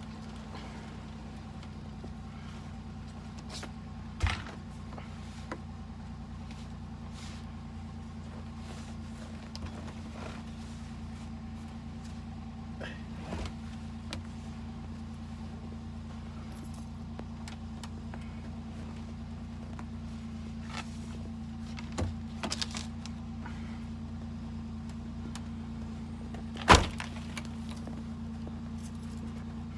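A car engine idling steadily, with a few short knocks over it, the loudest near the end.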